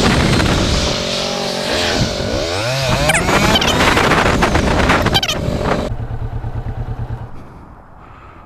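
Motorcycle riding with heavy wind rush, its engine pitch rising about two seconds in. About six seconds in the rush cuts off and the engine settles to a low steady note as the bike stops, then that note ends too.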